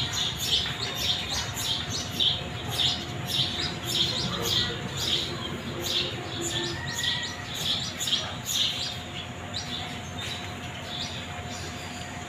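Small birds chirping in quick, repeated short chirps, several a second, growing a little fainter near the end.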